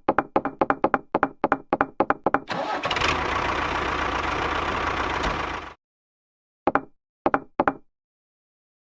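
A fast run of sharp, pitched knocks, about five a second, then about three seconds of steady motor-like noise with a low hum that cuts off suddenly, followed after a pause by three more single knocks.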